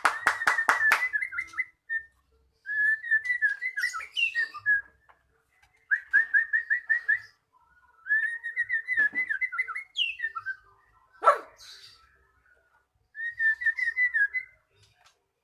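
White-rumped shama (murai batu) singing: several phrases of fast, repeated whistled notes, separated by short pauses. It opens with a run of sharp clicking chatter and has a loud sharp call about eleven seconds in and another at the very end.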